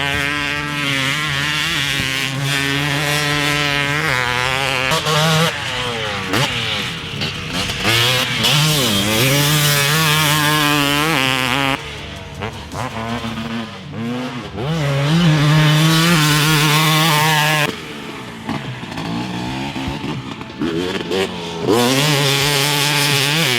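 TM250 two-stroke dirt bike engine with a Pro Circuit pipe and silencer, revving up and down hard as the bike is ridden. Its pitch climbs and falls over and over, with a couple of stretches where it drops back and quietens before picking up again.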